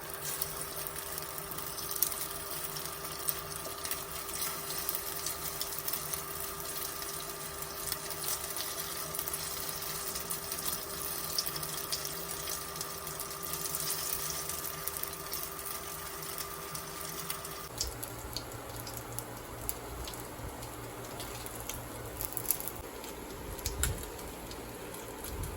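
Oil sizzling and crackling in a frying pan with sharp pops here and there, over a steady hum that changes abruptly about eighteen seconds in.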